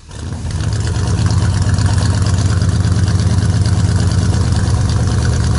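The 1953 Ford F100 rat rod truck's engine idling steadily with a low, even, rapidly pulsing exhaust note, fading in at the very start.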